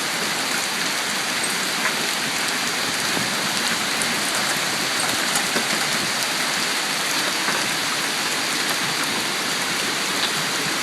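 Hail and heavy rain pelting down in a steady dense hiss, with scattered sharper ticks of hailstones striking.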